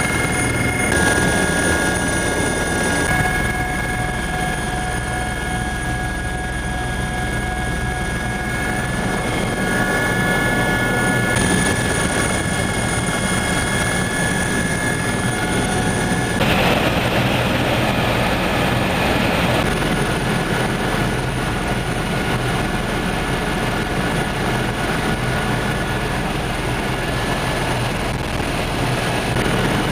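Helicopter engine and rotor running steadily, a dense drone with steady whining tones, heard from on board. About halfway through a louder rush of noise comes in for about three seconds.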